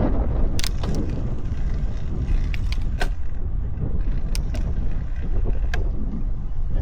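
Wind buffeting the microphone and road rumble during a bicycle ride, with a few sharp clicks or rattles scattered through.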